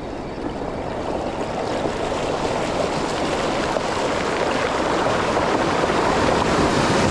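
Ocean surf washing up the beach, a steady rushing wash that swells gradually louder.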